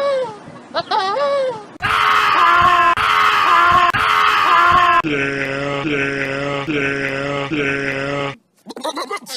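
Farm animals bleating: a run of loud calls back to back, changing abruptly as one clip cuts to the next, with the loudest, highest calls in the middle. The calls stop abruptly near the end, and shorter, choppier calls follow.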